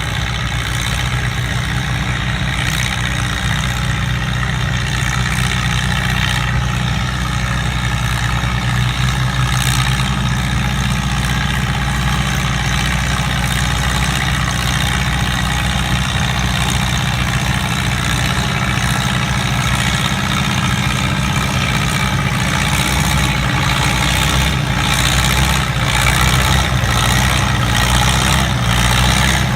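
Minneapolis-Moline tractor engine running steadily, growing slightly louder toward the end.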